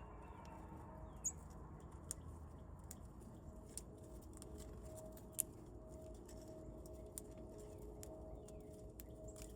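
Faint outdoor ambience at a bird feeder: scattered sharp clicks and taps from birds at the feeder, over a faint low tone that repeats in short pulses.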